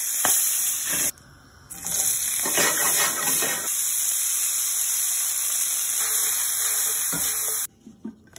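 Salmon fillet, then asparagus, sizzling in hot oil in a honeycomb stainless frying pan: a steady, loud hiss. It breaks off briefly about a second in and cuts off suddenly near the end.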